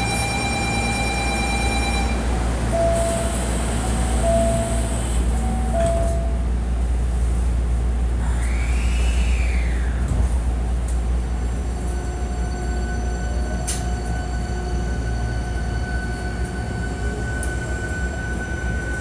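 Hankyu 1300-series electric train heard from inside the car: a steady low running rumble with electrical motor tones that keep changing pitch, including one tone that rises and falls around the middle and tones that begin climbing near the end. Car 1858 is known for its unusual acceleration and braking sounds.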